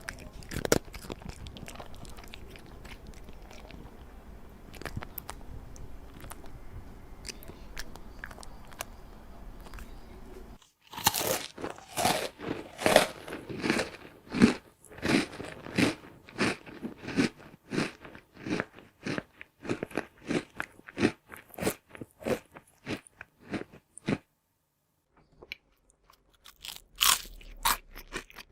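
Crunchy chewing sound effect dubbed over a cat eating: a fast run of sharp crunching bites, two or three a second. It starts suddenly about ten seconds in after a hissy stretch with scattered small crunches, breaks off briefly, then resumes near the end.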